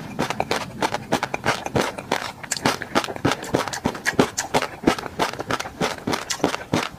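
Close-miked mouth sounds of chewing tobiko (flying fish roe) in peanut sauce: a rapid, uneven run of wet clicks and small pops as the tiny eggs burst.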